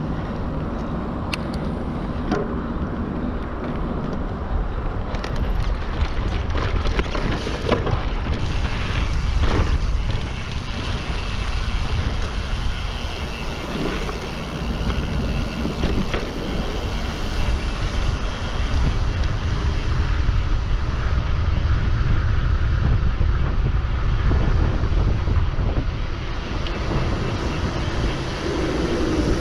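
Mountain bike ride heard from a body- or helmet-mounted camera: steady wind buffeting on the microphone over the rumble of the bike rolling along the trail. There are sharp clicks and rattles in the first several seconds.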